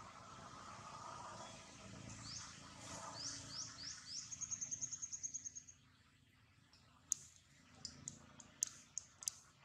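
A bird singing: a few quick high chirps, each sweeping downward, then a fast trill of about a dozen high notes that stops about six seconds in. Several sharp clicks follow near the end.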